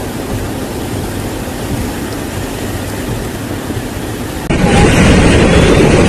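Steady rushing noise, with no voices or clear events. About four and a half seconds in it cuts abruptly to a much louder, fuller rush.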